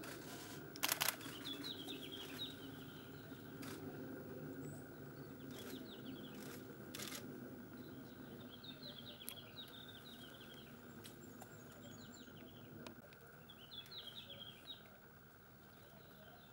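Small birds twittering in short bursts of high chirps, repeating every few seconds, over a low steady hum that stops about 13 seconds in. A few sharp clicks are heard, the loudest about a second in.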